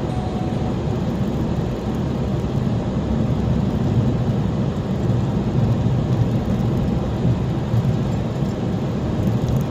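Steady low rumble of a car being driven: engine and tyre noise that holds an even level throughout.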